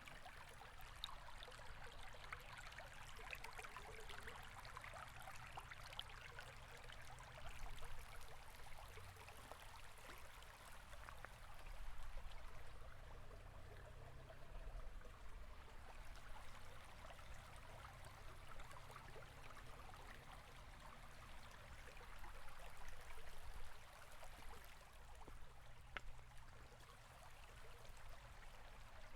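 Shallow river or stream flowing steadily, a continuous rushing and trickling of water with a low rumble underneath.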